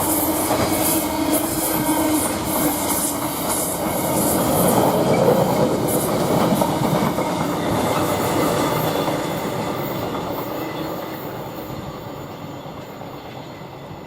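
Wagons of a Freightliner container train rolling past at speed: a steady rumble of wheels on rail with rapid clicking. It fades away over the last several seconds as the end of the train passes.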